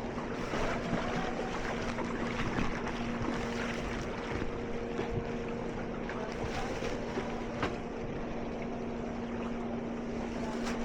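A steady motor hum holding one pitch, over a constant rushing noise of water and wind on the microphone, with a few faint knocks.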